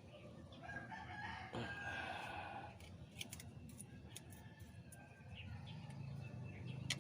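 A rooster crowing, one drawn-out crow of about two seconds. A few sharp metallic clicks follow, the loudest just before the end.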